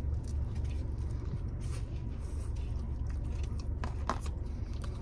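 Close-up chewing and biting of pizza, with soft wet mouth clicks and a few sharper crunchy bits about four seconds in, over the steady low rumble of a car's idling engine.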